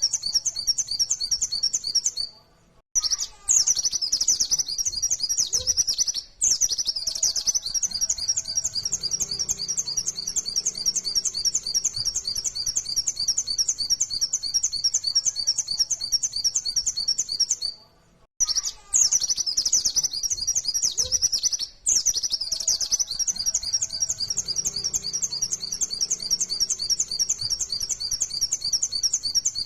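Pleci (white-eye, Zosterops) singing in the rapid 'nembak' style: a fast, unbroken stream of high chattering notes, with short breaks about two and a half and eighteen seconds in. The same stretch of song repeats about every fifteen seconds.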